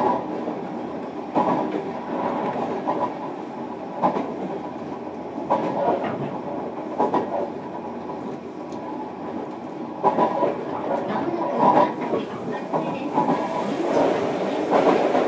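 Running sound inside a JR Kyushu 305 series electric train, recorded in a motor car: a steady rumble from the wheels and track, with clicks as the wheels pass over rail joints every second or two, often in quick pairs.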